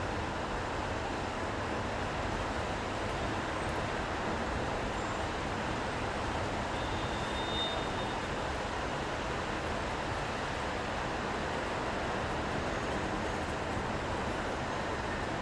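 City street ambience in the rain: traffic and rain noise blended into a steady, even wash. A brief faint high tone sounds about seven seconds in.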